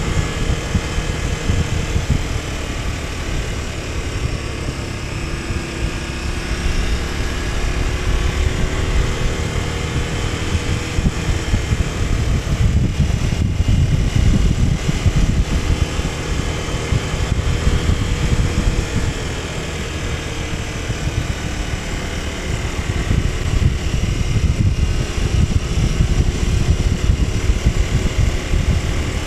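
KTM 1290 Super Adventure S's big V-twin engine running steadily while the bike is ridden, its pitch drifting gently up and down, under heavy wind rumble on the microphone.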